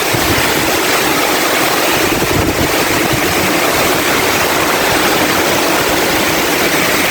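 Heavy typhoon rain pouring down in a dense, steady, loud hiss.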